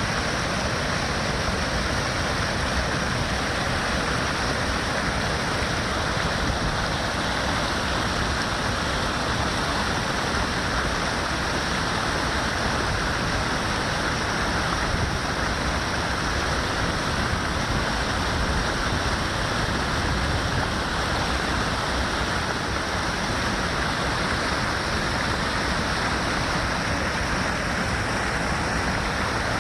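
Waterfall: water pouring down in a steady, unbroken rush with no changes.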